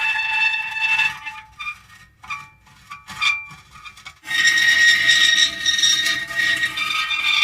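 Metal creaking in drawn-out groans, breaking off about a second in into a few short creaks, then a long creak again from about four seconds in.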